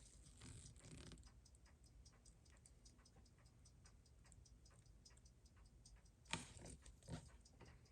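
Faint, steady ticking of a running mechanical timepiece, several ticks a second, with two sharper clicks of small tools on the bench near the end.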